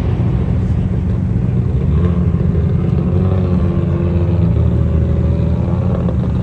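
Car engine running with a deep, steady exhaust rumble; from about two seconds in a pitched engine note comes up and shifts slightly in pitch, fading out near the end.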